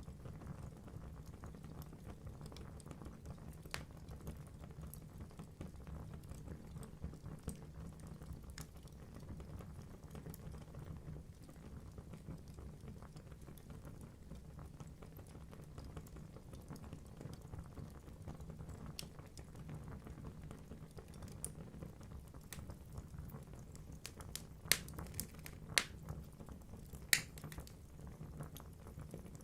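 Wood fire burning in a fireplace: a low steady rumble of flames with scattered crackles from the logs, and three louder sharp pops close together near the end.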